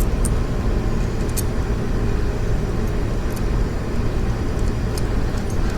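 Steady low rumble of background noise with a few faint, light clicks of small parts or tools being handled.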